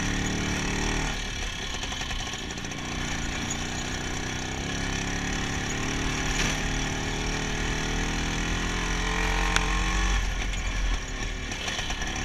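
IZh Planeta 5 motorcycle's single-cylinder two-stroke engine running under way. Its note drops about a second in, climbs slowly through the middle, and changes again near the end as the throttle varies.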